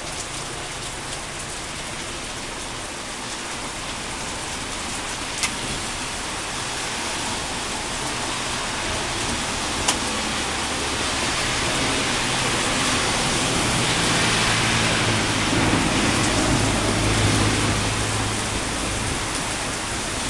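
Heavy rain pouring steadily, with two sharp clicks in the first half. A low rumble swells through the second half and eases off near the end.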